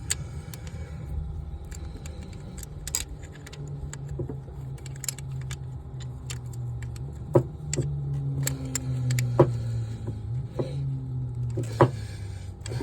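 Scattered metallic clicks and clinks of hand tools and an 8mm socket being handled while working on a starter, over a low steady hum that builds through the middle.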